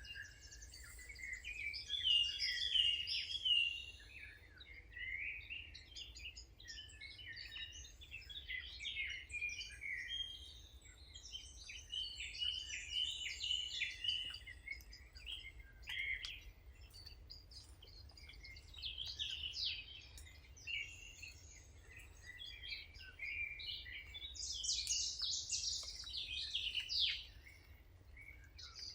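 Several small songbirds chirping and singing, many short calls and trills overlapping, busiest a couple of seconds in and again near the end, over a faint low rumble.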